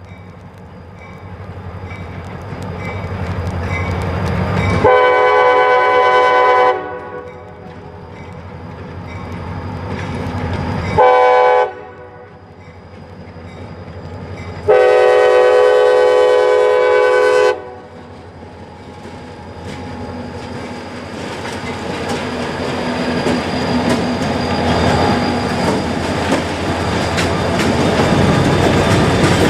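Diesel freight locomotive approaching and sounding its multi-chime horn: a long blast about five seconds in, a short one, then another long blast. Between and after the blasts the engine's low rumble and the clatter of wheels on rail grow steadily louder as the train draws near.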